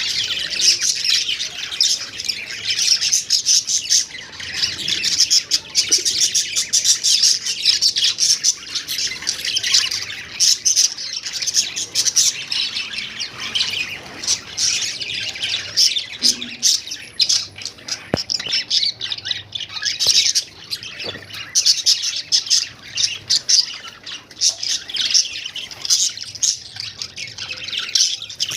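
Budgerigars chattering: a steady, unbroken stream of high chirps and squawks.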